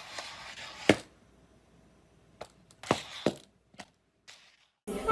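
A few sharp knocks or taps: one about a second in over a short stretch of noise, then a quick cluster of three around three seconds in. Music comes in at the very end.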